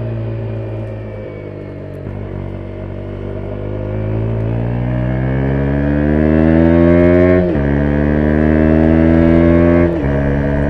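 2017 KTM 125 Duke's single-cylinder four-stroke engine accelerating: the revs sag briefly, then climb steadily for about five seconds. They drop sharply at an upshift, climb again and drop at a second upshift near the end.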